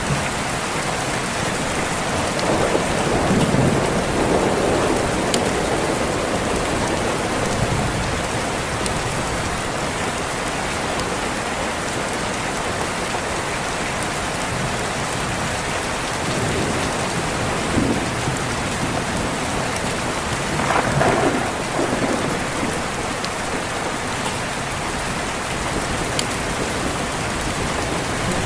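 Steady heavy rain with rolls of thunder: a longer rumble a few seconds in and another about twenty-one seconds in.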